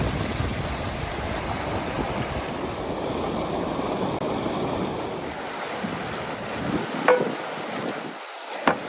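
Wind buffeting the microphone over the steady rush of river water. Two short sharp knocks, one about seven seconds in and one near the end.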